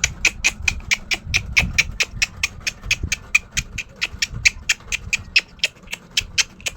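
Neighbour's dog barking in a rapid, steady run of short yaps, about five a second.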